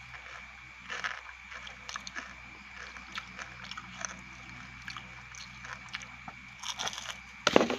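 Close-miked chewing and crunching of fried grasshoppers: irregular crisp crunches over a faint steady high whine, with a loud thump near the end.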